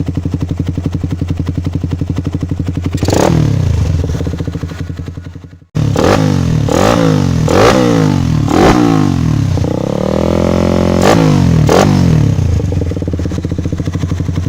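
Suzuki Satria FU 150's single-cylinder four-stroke engine breathing through a WRX K2 oval stainless-steel aftermarket exhaust, idling with a fast even pulse. About three seconds in it is revved once and falls back, the sound breaks off briefly, then comes a run of quick throttle blips, a longer held rev, two more blips, and it settles back to idle.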